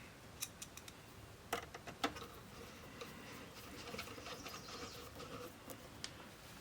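Scattered sharp clicks and taps of small parts and tools being handled while working on a boombox, loudest twice near the second mark, with a faint scratchy rustling stretch in the middle.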